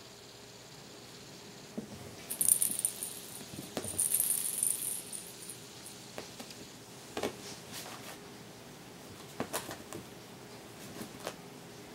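Light metallic jingling in two short spells in the first half, with scattered taps and knocks through the rest, as a kitten plays with a jingling toy.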